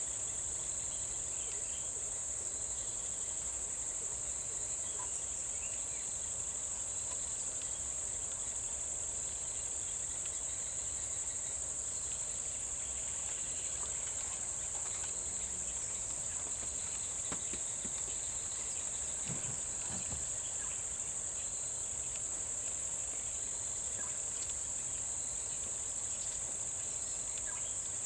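Insect chorus, a steady high-pitched drone of crickets or similar insects that runs unbroken, with a few faint knocks about two-thirds of the way through.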